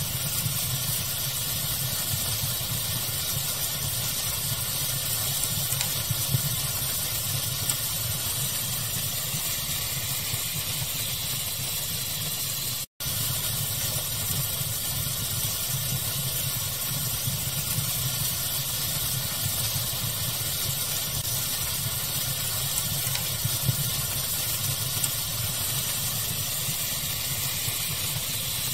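Steady pink-noise hiss mixed with a crackling fire, with occasional small pops. The sound cuts out for an instant about thirteen seconds in.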